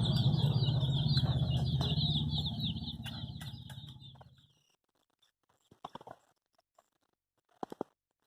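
Baby chicks peeping over a steady low rumble. The sound fades out about four seconds in, and after that only a couple of faint short peeps or taps are heard.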